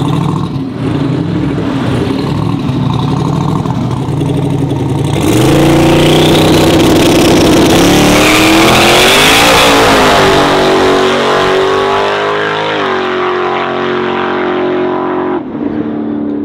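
Turbocharged LS V8 drag truck engine at full throttle. It runs lower for the first few seconds, then launches hard about five seconds in, its revs climbing and stepping up through the gears. Near the end it lifts off and drops away.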